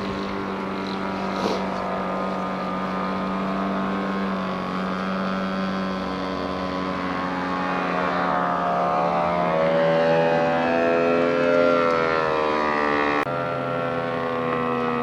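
A radio-controlled model airplane's propeller engine running steadily, then its pitch falling and rising several times in the second half as it flies. The sound changes abruptly about thirteen seconds in.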